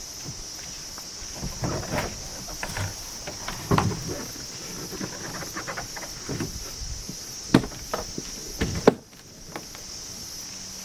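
Steady high-pitched insect drone with scattered knocks and clunks over it; the drone drops out briefly about nine seconds in.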